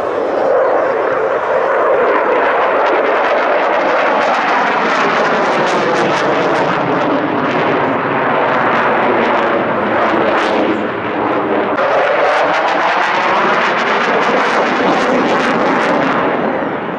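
Engine noise of a fixed-wing aircraft flying past, loud and steady, with a slowly sweeping hollow tone as it passes. The hiss in it fades shortly before the end.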